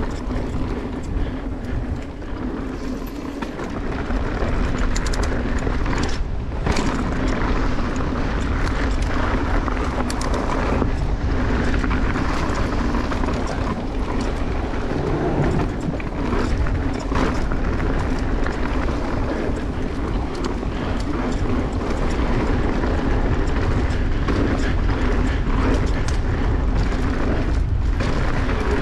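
Wind rushing over the microphone and knobby tyres rolling on a dirt trail as a mountain bike is ridden fast. The rush is steady with a deep rumble, broken by a few brief dips and short knocks from bumps.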